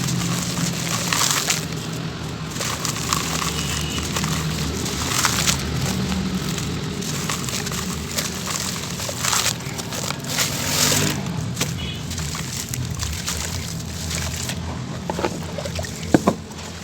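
Grainy chunks of dried sand-cement crumbling and crunching in water: a continuous gritty crackle, with a few sharper cracks near the end.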